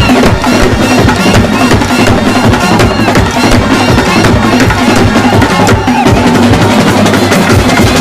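Loud live festival band music: a melody played over fast, dense drumming with bass drum.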